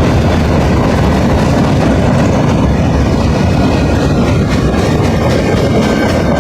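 Norfolk Southern freight cars rolling past close by: a steady, loud rumble and rattle of steel wheels on the rails, with faint repeated clicks of wheels going over rail joints.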